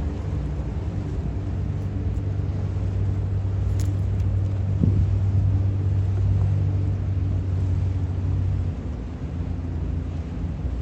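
Steady low engine drone with a deep hum, easing slightly near the end.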